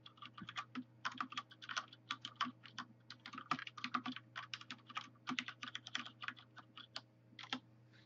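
Typing on a Filco Majestouch Linear R mechanical keyboard with linear Cherry MX switches, pressing the keys without bottoming out. The quiet clacks come mainly from the keycaps springing back to the top rather than from keys hitting bottom. It is a fast, uneven run of light key clicks that stops shortly before the end.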